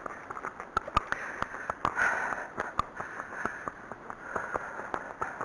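Arabian horse's hooves on a track at a walk, a string of quick, light, irregular footfalls: his "little feet going", the sign that he is keyed up and expects a gallop.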